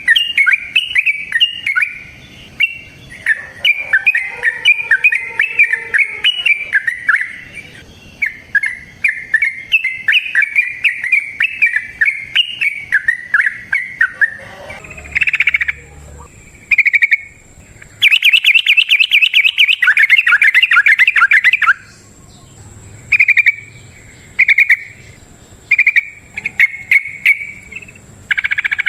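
Yellow-vented bulbul (trucukan) singing: a long, rapid, unbroken run of quick chattering notes for about the first half, then shorter separate phrases with one dense fast run about two thirds in.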